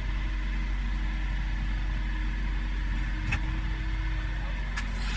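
Yanmar B22 mini excavator's diesel engine running steadily, with a couple of short knocks, one about three seconds in and one near the end.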